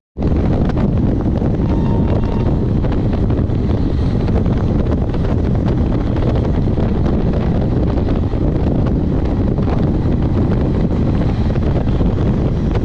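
Steady rush of wind buffeting the microphone over the rumble of a passenger train running at speed.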